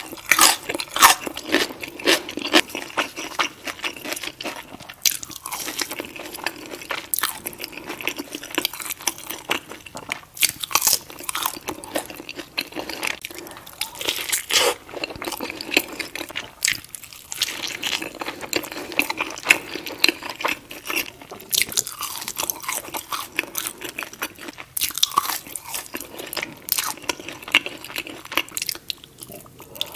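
Close-miked mouth sounds of eating: crunching bites and wet chewing of pickled jalapeño slices and a burger with a crisped cheese crust. The crackly bites and chewing run on with only brief pauses.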